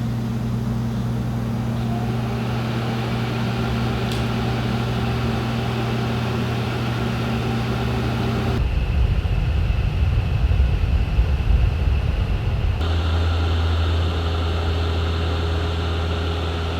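Steady machine hum with a low, even drone. About halfway through it gives way to a rougher, uneven rumble for a few seconds, then a steady hum returns at a slightly different pitch.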